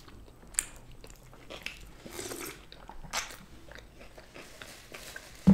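Close-miked eating sounds: faint wet chewing of a bite of burger, with a few sharp mouth clicks.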